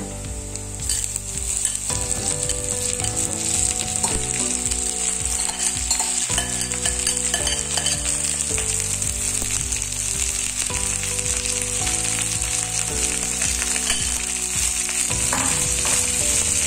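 Sliced okra tipped into hot oil in a wok, sizzling and frying steadily. The sizzle grows louder about a second in as the okra lands in the oil.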